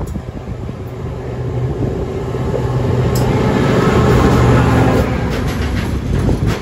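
DB class 294 diesel-hydraulic locomotive approaching and passing close by with its engine running, growing louder to a peak about halfway through. Its tank wagons then roll past, with wheel clicks over the rail joints near the end.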